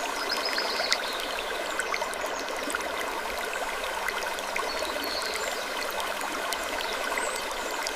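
Steady, even rushing noise scattered with many faint ticks and small crackles, all at a flat level, with no distinct creak standing out.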